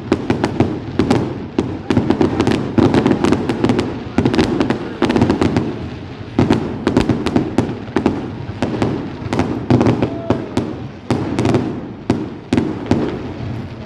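Fireworks going off in a dense, continuous barrage: many sharp bangs and crackles overlapping, several a second, over a steady rumble.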